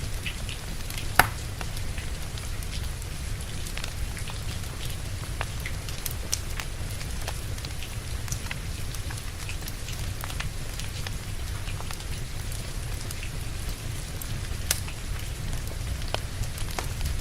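Steady rain together with a wood fire crackling: scattered pops and snaps over a continuous low rumble, with one sharp pop about a second in.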